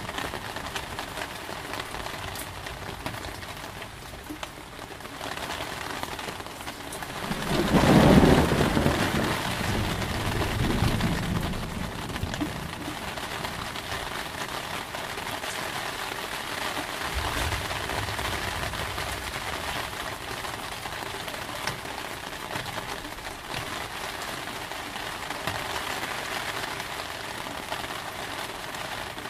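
Steady heavy rain. A clap of thunder comes about eight seconds in and rumbles away over the next few seconds, with a fainter rumble later.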